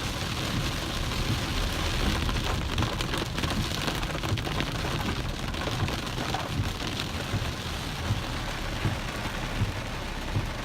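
Heavy rain pelting a car's roof and windshield, heard from inside the car: a steady hiss with irregular low thuds.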